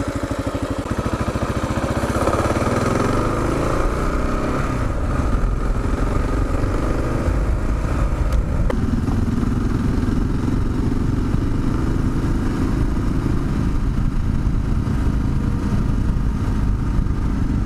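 Kawasaki KLR 650's single-cylinder engine idling with an even pulse, then revving as the bike pulls away about two seconds in and running steadily as it rides on.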